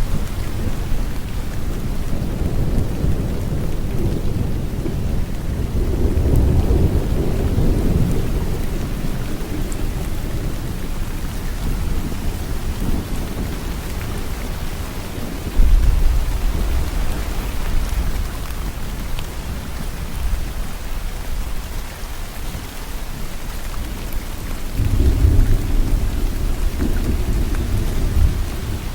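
Steady rain falling in a thunderstorm, with low thunder rumbles: one swelling up a few seconds in, a sudden clap about halfway through that rolls on, and another rumble near the end.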